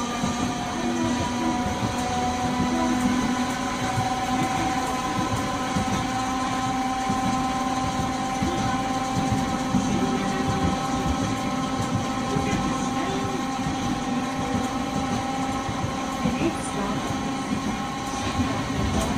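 Nagasaki Electric Tramway 370 series streetcar running between stops, heard from inside the car: a steady whine of several held tones over the rumble of the wheels on the rails.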